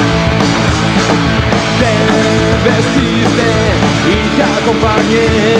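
A punk rock band playing a song live, loud and steady.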